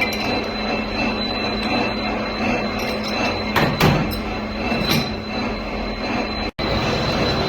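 Metal-turning lathe running as it machines a steel hydraulic piston, a steady hum with a high whine over it. There are two metallic knocks about halfway, and the sound cuts out for an instant near the end.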